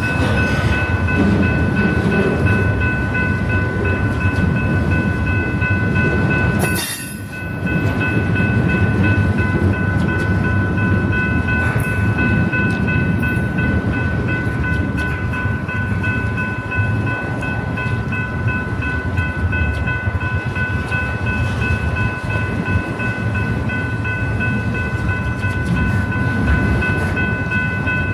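BNSF train rolling past: the steady low rumble of the cars on the rails, with several steady high-pitched ringing tones held over it. The sound drops out briefly about seven seconds in.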